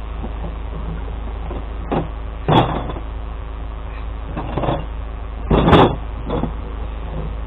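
Truck engine running steadily with a low drone, broken by several short knocks and rattles, the loudest a double knock about three-quarters of the way through.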